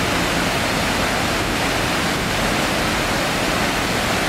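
Waterfall: water falling steadily, a constant loud rush of noise without any change.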